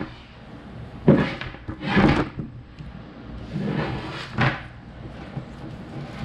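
Welding leads and gear being handled and laid out: several short scraping and rustling noises, the first about a second in, another around two seconds, and two more near four seconds.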